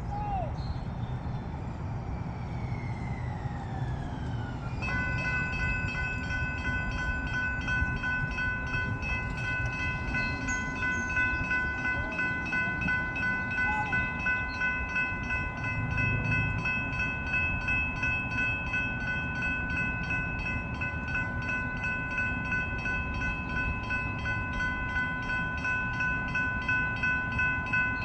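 Railroad crossing electronic bell (General Signals Type 3) starting about five seconds in and ringing steadily with a quick, even ding, the sign that the crossing signals have activated for an approaching train. Before it, a falling whine sounds, over a low rumble of traffic.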